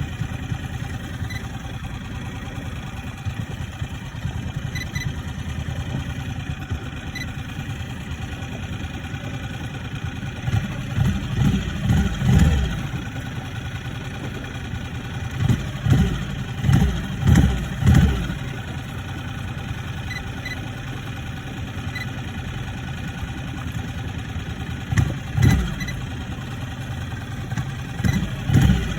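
Yamaha F6C four-stroke outboard motor running steadily at idle, revved up briefly several times: a cluster of short revs about a third of the way in, another run of them around the middle, a couple more near the end.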